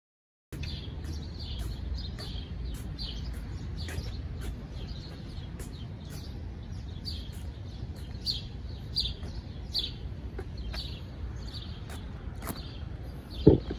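Small birds chirping repeatedly, short high chirps over a low steady outdoor rumble. A few loud sharp knocks come right at the end.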